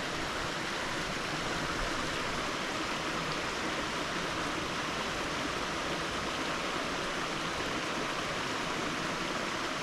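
Small moorland stream running over rocks: a steady rush of flowing water.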